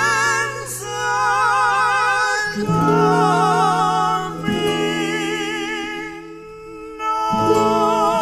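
Folk song with singing on long held notes with wide vibrato over guitar accompaniment; the music drops back briefly about six seconds in, then swells again.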